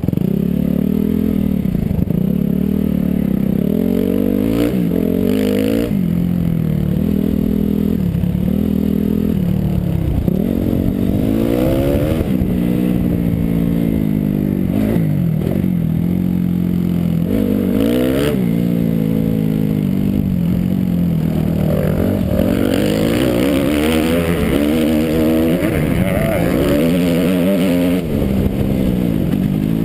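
Motocross bike engine heard from the rider's helmet camera, revving up and dropping back over and over as the bike accelerates, shifts and brakes around a dirt track. A rushing noise grows over the engine in the later part.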